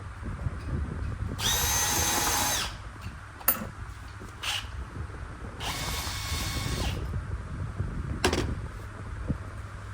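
A power drill running in two short bursts of a bit over a second each, about three seconds apart, with a few sharp clicks and knocks between them.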